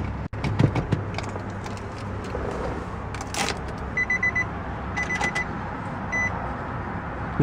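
Nissan Altima SE-R's 3.5-litre V6 idling steadily, heard from inside the car, with scattered clicks and knocks. About four seconds in come groups of short, high electronic beeps: four quick beeps, then three, then a single one.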